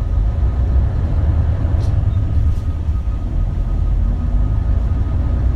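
Isuzu Erga (KL-LV280L1) city bus heard from inside the cabin: a steady low diesel engine and road rumble while the bus drives. Near the end a faint whine comes in and rises slightly in pitch.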